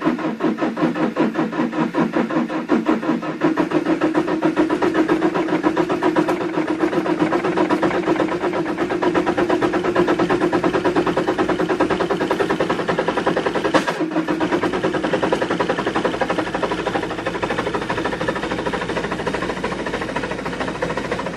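Diesel engine running steadily at idle soon after a cold start, with a fast, even pulsing beat.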